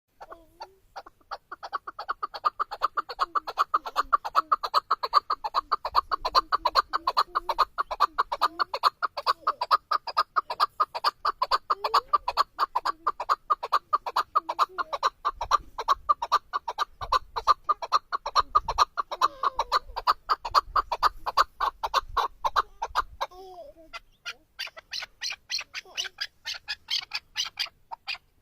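Male chukar partridge calling: a long, rapid run of evenly repeated short notes. After a brief pause near the end, it shifts to higher, thinner notes.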